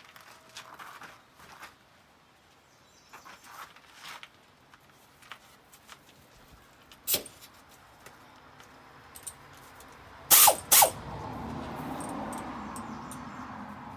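Scattered clinks and knocks of tools being handled, with one sharp click about seven seconds in and two loud knocks a little after ten seconds. A steady machine whirr starts right after the knocks and slowly fades.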